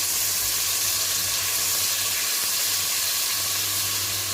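Butter melting in hot cooking oil in a pan, sizzling with a steady hiss.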